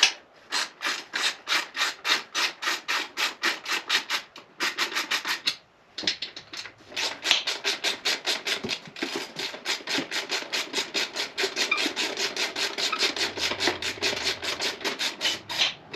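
Ratchet wrench being cranked back and forth to undo nuts, each return swing giving a short rasp of pawl clicks, about four strokes a second, with two brief pauses a few seconds in.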